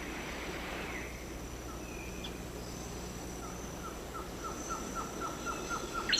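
Rainforest ambience: a steady high insect buzz, joined about halfway by a short repeated call, about four a second, that grows louder.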